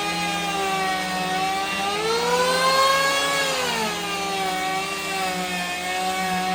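A power tool's motor running with a steady whine that rises in pitch about two seconds in and falls back about two seconds later, over a low steady hum.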